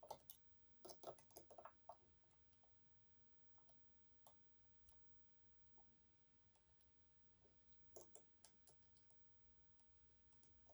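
Faint, scattered metallic clicks and taps of a short hook pick and tensioner working the unsprung sliders inside an EVVA 3KS high-security lock. There is a quick flurry in the first two seconds and another about eight seconds in.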